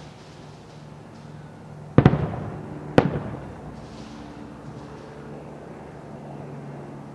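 Aerial firework shells bursting: two loud booms about a second apart, each dying away in a rumbling echo.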